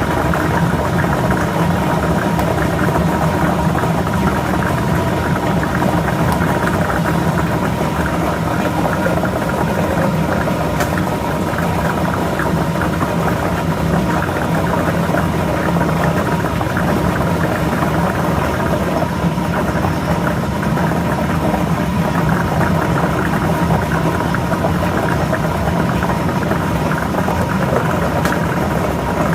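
Lottery ball drawing machine running, its blower whirring steadily with the balls rattling and tumbling inside.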